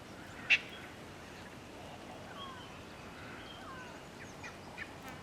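Birds calling at a waterhole: scattered short chirps and whistling calls, with one sharp, brief call or click about half a second in.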